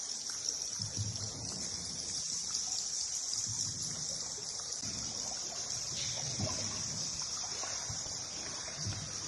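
Water trickling and splashing softly in a cave river, irregular and unhurried, over a steady high hiss.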